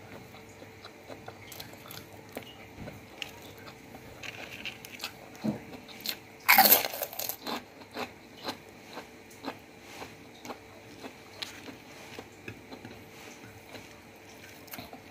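A person chewing and crunching food close to the microphone while eating rice, fish and raw napa cabbage by hand, with many soft clicks. A louder crunch comes about six and a half seconds in.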